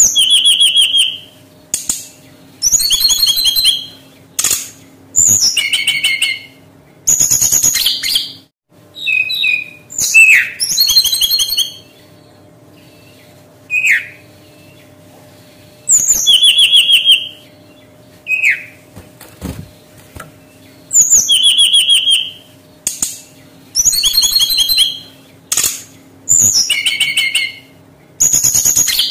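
Brown-chested jungle flycatcher singing: loud, high-pitched phrases of about a second each, made of rapid rattling notes, repeated with short pauses. A few sharp down-slurred single notes fall between the phrases, over a faint steady hum.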